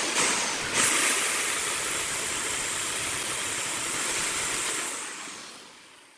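Steady hissing rush of woodturning work at a lathe, fading out near the end.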